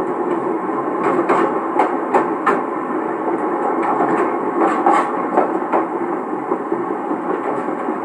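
Locomotive-hauled passenger train heard from the end deck of the coach behind a DE10 diesel locomotive: steady running noise with sharp knocks and clicks scattered through it, played back from an old cassette recording.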